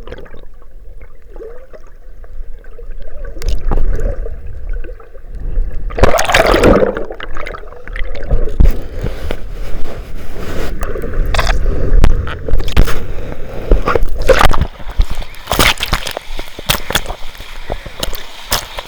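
Sea water sloshing and gurgling close to the microphone, with a low rumble and a run of sharp splashes and knocks from about six seconds in.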